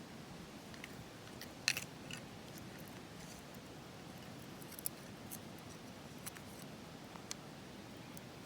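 A few sharp, light clicks and taps of makeshift chopsticks against the pot while eating ramen, the loudest about two seconds in, over a faint steady hiss.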